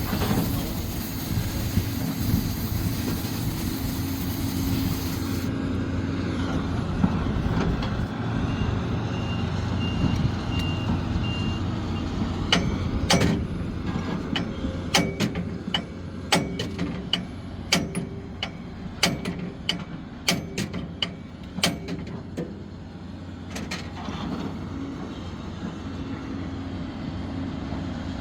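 Sumitomo SH370LHD-6 excavator's diesel engine running steadily. A hiss sits over it for the first five seconds, a short stretch of high beeping comes about ten seconds in, and a run of sharp knocks follows from about 12 to 24 seconds in.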